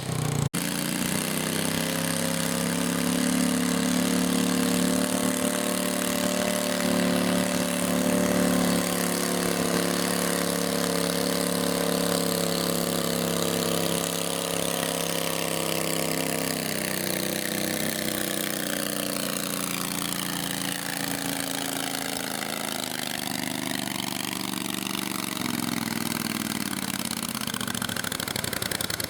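Garden tractor engine running steadily, its pitch easing slightly lower in the second half.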